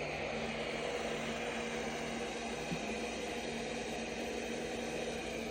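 ECOVACS Deebot X9 Pro robot vacuum running, a steady whirring hum with a hiss of suction air.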